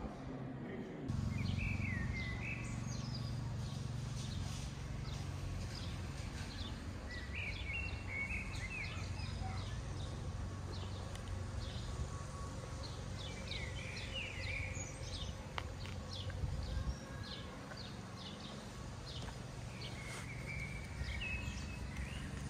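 Outdoor ambience with birds singing short phrases every few seconds and quicker high chirps between them, over a steady low rumble.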